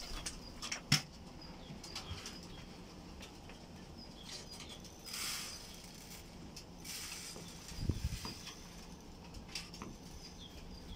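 Pigeons' wings flapping as they come and go, with scattered light taps and clicks. There is a short flurry about five seconds in and a dull thump near eight seconds.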